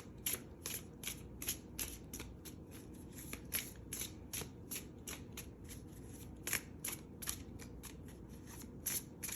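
Tarot cards being shuffled by hand: a steady run of short, crisp card slaps and riffles, about three a second.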